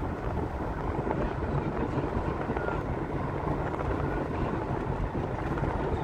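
Steady rumble of a car on the move: engine and road noise.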